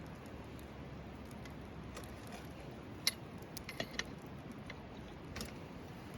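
Wood campfire crackling: a few scattered sharp pops and clicks, the loudest about three seconds in and a small cluster around four seconds, over a low steady background.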